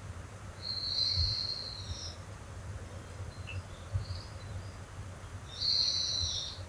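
A high-pitched call of a wild animal in the forest, heard twice, each lasting about a second and a half, over a steady low rumble.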